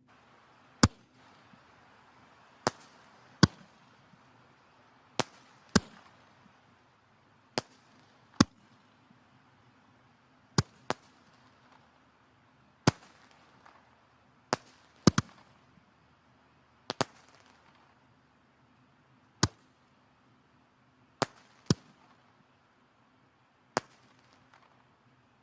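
Firewood burning in a wood-burning fireplace, crackling with sharp pops every second or two over a faint steady hiss.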